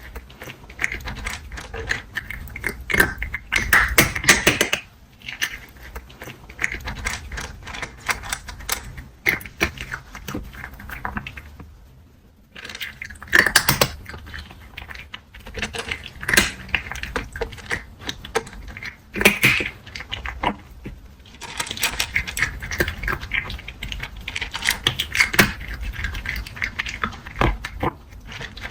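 A cat crunching dry kibble up close: rapid, irregular crunching clicks in bouts, broken by brief pauses.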